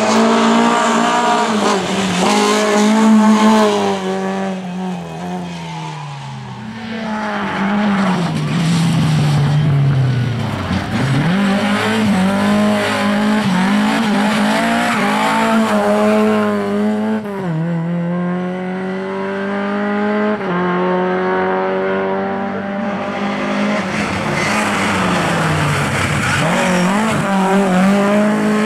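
Lada rally car engines running at high revs, the pitch dropping and climbing again several times as the drivers lift and change gear. Tyres squeal and scrabble through the corners.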